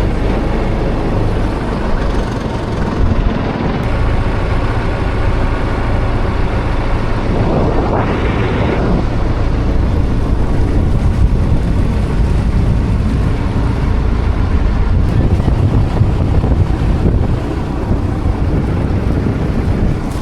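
Motorboat engine running steadily, with wind buffeting the microphone and a brief rushing swell about eight seconds in.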